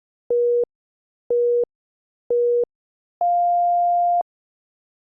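Workout interval timer's countdown beeps: three short electronic beeps a second apart, then one longer, higher beep marking the change of interval.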